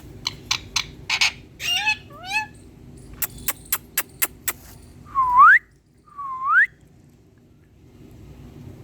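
Indian ringneck parrot making a run of sharp clicks and a few short warbling chirps, then two loud rising whistles about a second apart.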